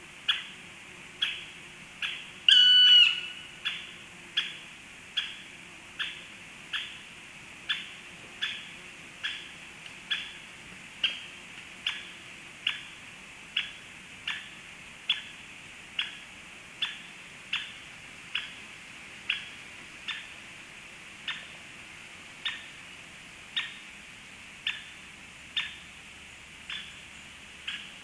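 Black stork calling: a short, high, sharp note repeated steadily about once a second, with one longer, louder drawn-out call about two and a half seconds in.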